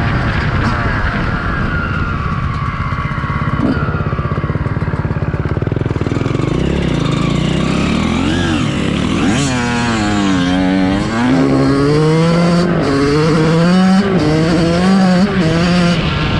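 Motocross bike engine revving hard, its pitch climbing and dropping again and again as the rider twists the throttle and shifts gears, with the swings strongest in the second half.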